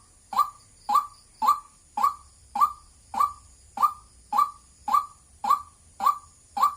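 White-breasted waterhen giving its 'wak wak' call: one short, sharp note repeated steadily at a little under two a second.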